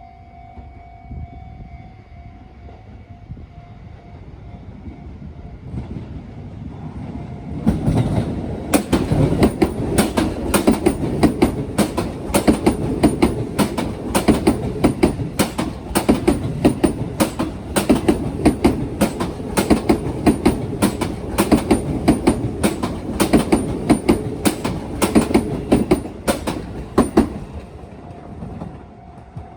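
A Sotetsu train passes over the rail joints of a turnout: after a few seconds of a level-crossing warning bell ringing, the wheels set up a loud, rapid clacking that lasts about twenty seconds before fading, and the crossing bell is heard again near the end.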